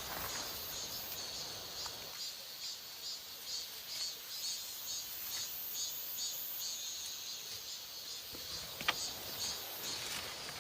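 Insects chirping in a steady repeating rhythm, about two to three high chirps a second. A single sharp click sounds near the end.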